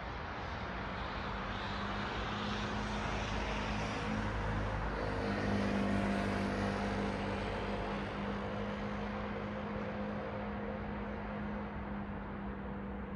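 Road traffic: a passing vehicle's tyre and engine noise swells to a peak about halfway through and then fades, over a steady low engine hum.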